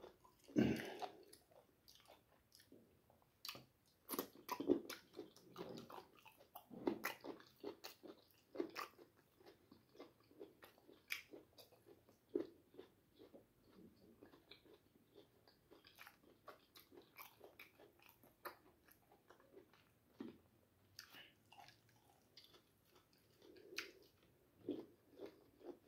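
Close-up chewing and biting of a meal of ugali and greens eaten by hand, with irregular wet clicks and smacks of the mouth.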